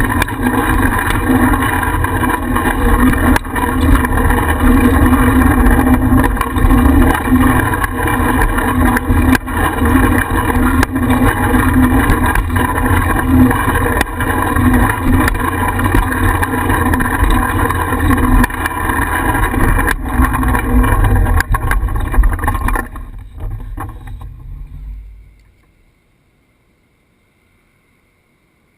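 Wind rumble and ride noise on a bicycle-mounted GoPro, with frequent clicks and knocks from bumps and rattles. It fades out near the end into near silence.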